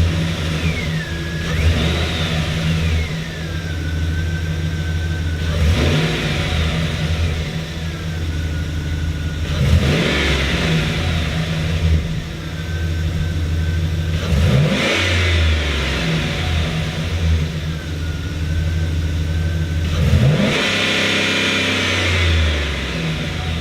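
2010 Chevrolet Express van engine idling and revved about five times, every four to five seconds, each rev rising and settling back to idle.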